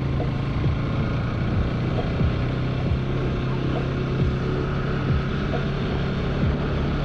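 Bajaj Pulsar NS200's single-cylinder engine running on the move, with wind and road noise, under background music that has a slow, steady beat.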